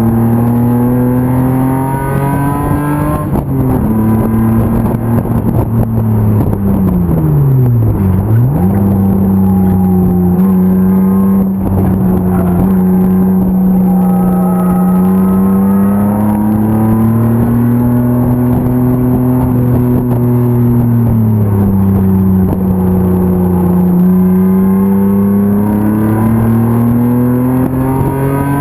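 BMW M50 inline-six engine of an E36 BMW 325 race car at racing speed. It rises in pitch, drops sharply at a gear change a few seconds in, and dips deeply and comes back up about eight seconds in. It then holds fairly steady with gentle rises and falls before climbing again near the end.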